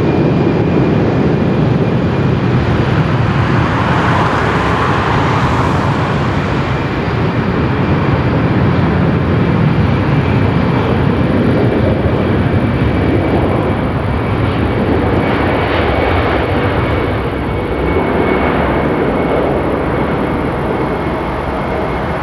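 Lufthansa Airbus A319-100's twin jet engines at high thrust for take-off, a loud, steady rush with a high fan whine held throughout, easing slightly near the end.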